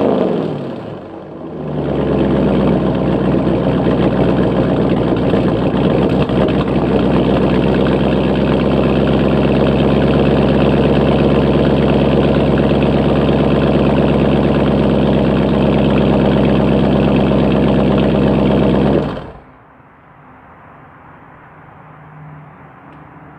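Hemi V8 engine dropping back from a rev, then idling steadily. It is shut off a few seconds before the end.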